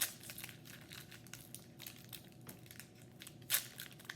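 Trading cards and their packaging being handled: irregular crinkling and rustling, with a sharper crinkle about three and a half seconds in.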